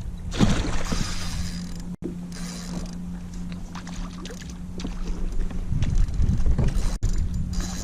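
Water splashing and lapping against a kayak hull, with wind buffeting the microphone.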